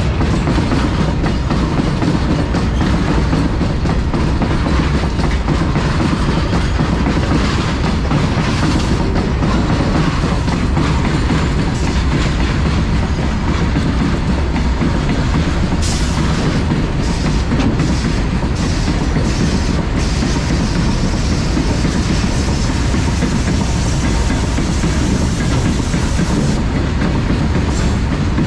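Indian Railways freight train running past, its wagon wheels rumbling steadily with a clickety-clack over the rail joints. A brief run of sharp high clicks comes a little past halfway.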